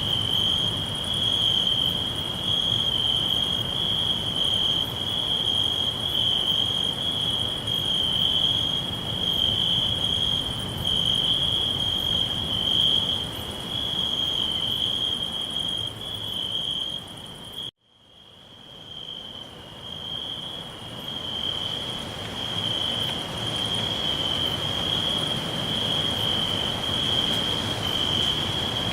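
Crickets chirping in a steady, high-pitched pulsing trill over a low background rumble. About two-thirds of the way through, everything cuts out suddenly and then fades back in over a few seconds.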